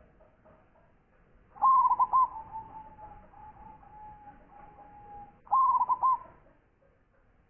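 Zebra dove (perkutut) singing: a burst of rapid, clipped coos about a second and a half in, a long softer rolling trill, then a second burst of rapid coos after about five and a half seconds.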